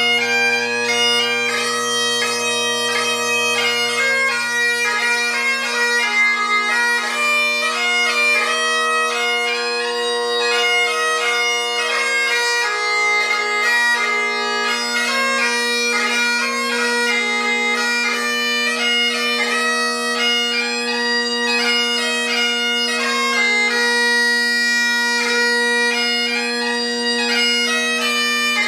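Great Highland bagpipes in Royal Mexican Ebony, with Ezee drone reeds, a blackwood chanter and a sheepskin bag, playing a tune. The chanter melody moves from note to note over the steady, unbroken hum of the drones.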